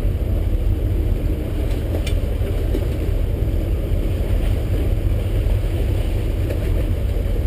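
Fishing boat under way, its engine running with a steady low rumble.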